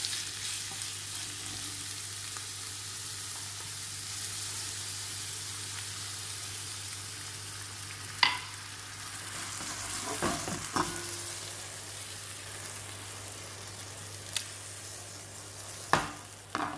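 Cubes of swordfish sizzling steadily as they fry in oil over a high flame in a nonstick pan, with a few sharp knocks about halfway through and near the end.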